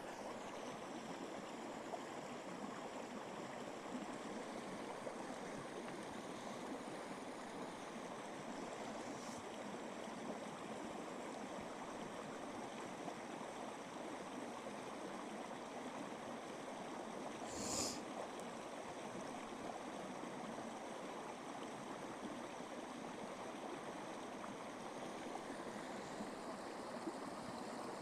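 Steady rush of running water, with a brief soft rustle about eighteen seconds in.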